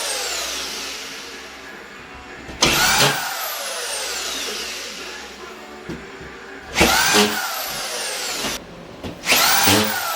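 Power drill or screw gun run in three short bursts, each spinning up with a quick rising whine and winding down with a long falling one, typical of driving drywall screws into sheetrock.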